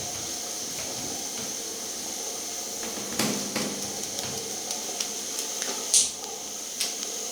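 Toilet being wiped down with a wet cleaning towel: a steady hiss throughout, with a few light knocks and taps, the sharpest about six seconds in.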